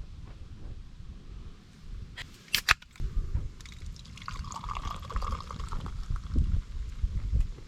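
A few sharp clicks or knocks, then liquid pouring for about two seconds.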